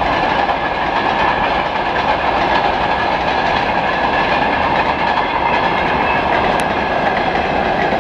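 Wagons of a freight train rolling past, a loud steady rumble of wheels on rail with a constant high ringing from the wheels.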